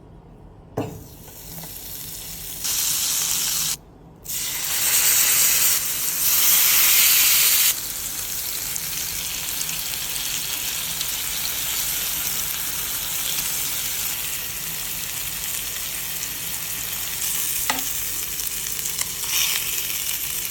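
Tandoori chicken sizzling as it fries, with a knock just before the sizzle starts. The sizzle comes in short cuts, louder and brighter for a few seconds with a brief drop near 4 s, then settles into a steady sizzle.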